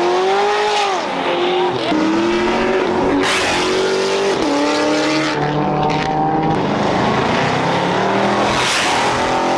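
Car engine revved hard and held at high revs during a burnout, its pitch climbing, dropping back and climbing again several times over a steady hiss of spinning tyres.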